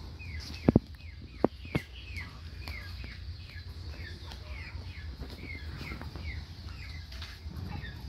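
A bird chirping over and over, short falling chirps about three a second, over a low steady rumble. Three sharp knocks in the first two seconds are the loudest sounds.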